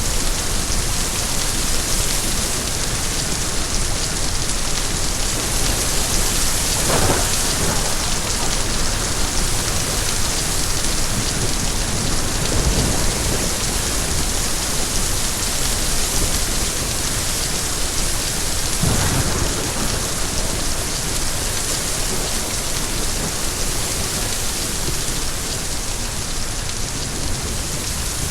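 Steady, dense rain falling, with a few brief low swells through the middle of the stretch.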